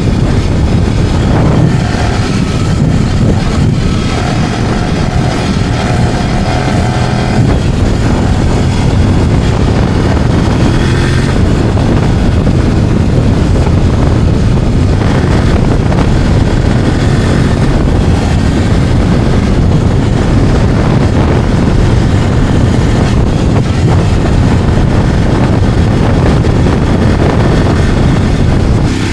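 Kove 800X Pro parallel-twin motorcycle engine running under way at modest revs and light load, as on a break-in ride. Its pitch rises and falls over the first several seconds, then it settles into a steady cruise with wind noise on the microphone.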